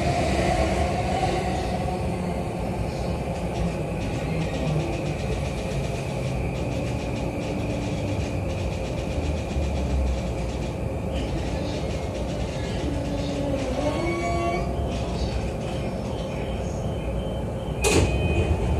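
JR East E235-series electric train heard from inside the car, running and slowing into a station: steady rolling noise with a faint motor whine that shifts in pitch about two-thirds of the way through. Near the end comes a sudden loud burst as the doors open, followed by a steady chime tone.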